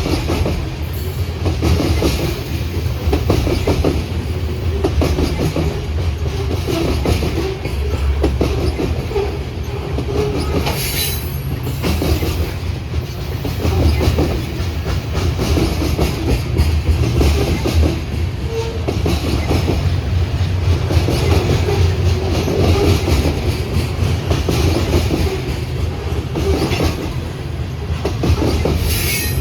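Train passing close by: a steady low rumble with wheels clacking rapidly over rail joints. Two brief high wheel squeals come through, about eleven seconds in and again near the end.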